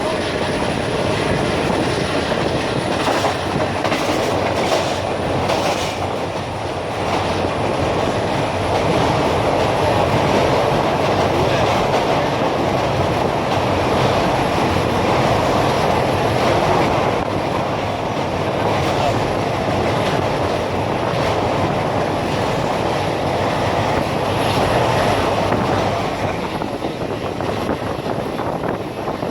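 Railway train running on the track at speed: a steady rumble of wheels on rails, with clicks over rail joints that are most distinct a few seconds in, and some wheel squeal.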